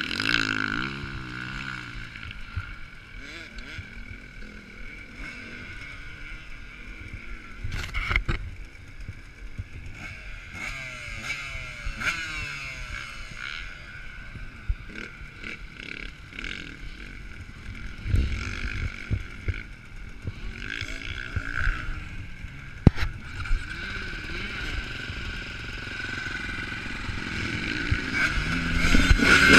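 Motocross motorcycles running on the track, engine pitch rising and falling as riders rev and back off, growing louder near the end.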